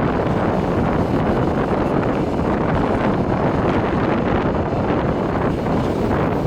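Moving passenger train running steadily, with wind rushing over the microphone.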